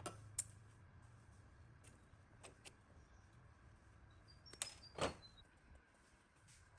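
A few sharp clicks and taps over a low steady hum, the loudest about five seconds in, with a faint brief high chirping just before it.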